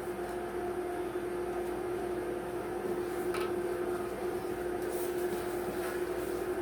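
Steady mechanical hum of a running machine, one fixed pitch, with a couple of faint light clicks.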